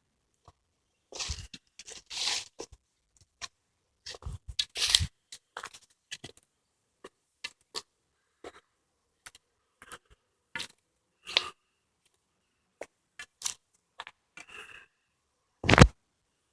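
Footsteps crunching on a woodland path, an uneven run of short crunches about one every half second to second, with a louder crunch near the end.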